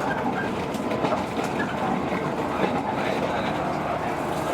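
JR 115 series electric train running at speed, heard from inside the passenger car: a steady running noise with occasional clicks of the wheels over rail joints.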